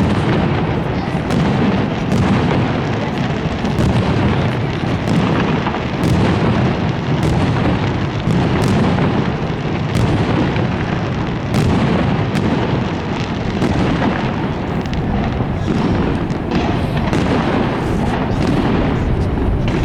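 Fireworks display: a dense, continuous barrage of overlapping bangs from bursting shells, with no gaps between them.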